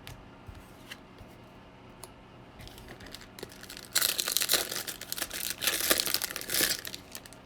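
A baseball card pack's foil wrapper being torn open and crinkled, starting about four seconds in after a few faint clicks.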